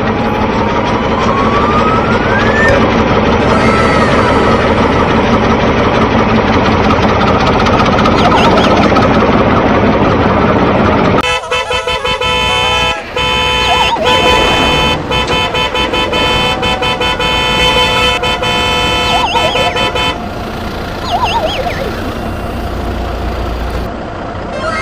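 Vehicle engine noise with horn toots, the sound changing abruptly about eleven and twenty seconds in.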